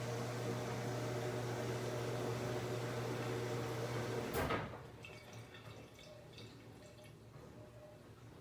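Washing machine running water through with a steady hum and rushing, which cuts off with a brief surge about four and a half seconds in. After that only faint clicks and ticks from the machine remain.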